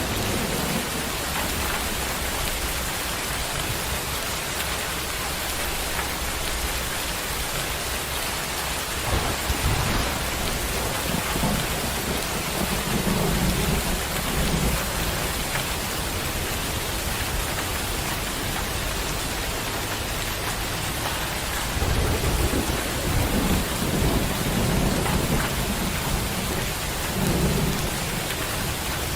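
Steady rain falling, with rolling thunder rumbling low underneath, swelling about a third of the way in and again over the last several seconds.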